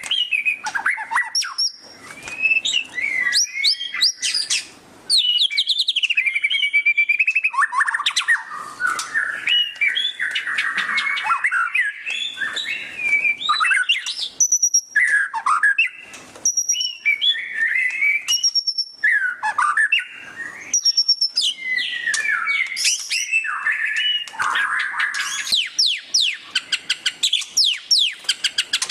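White-rumped shama (murai batu) singing a loud, varied song of rapid chattering trills ('ngeriwik') mixed with gliding whistled notes, phrase after phrase with short gaps between them.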